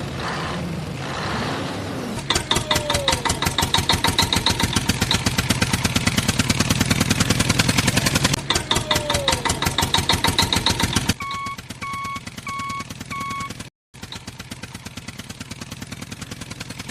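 Tractor diesel engine running with a fast, even chugging pulse that grows louder about two seconds in. Near the end a reversing alarm beeps four times over the quieter engine.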